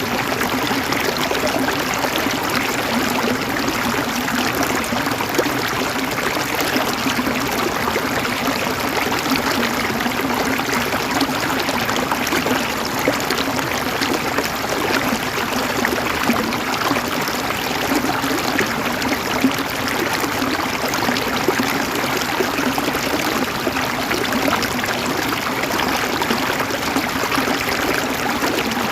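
River water flowing and gurgling over stones, a steady, unbroken rushing.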